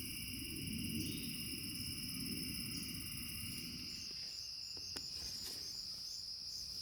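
A chorus of insects chirring steadily in several high tones through the summer woods. A low pulsing noise underlies the first half and stops about halfway, and a few faint clicks come about five seconds in.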